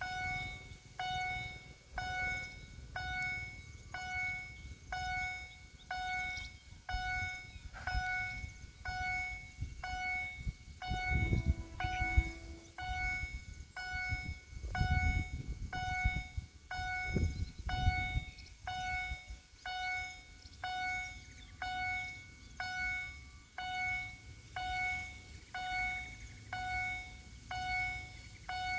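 Railway level-crossing warning bell ringing steadily, one clear pitched tone about once a second. A low rumble swells and fades twice in the middle.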